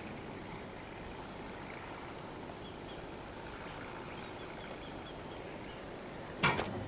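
Steady outdoor background hiss with a few faint high chirps, like distant birds, in the middle; a sharp knock comes near the end.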